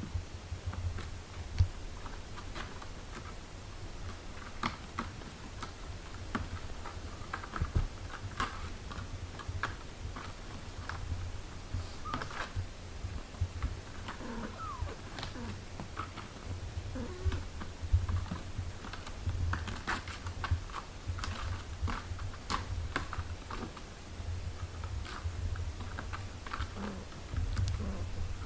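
A mother cat with her newborn kittens: a steady low purr under many small irregular clicks and rustles, with faint short squeaks from the kittens now and then.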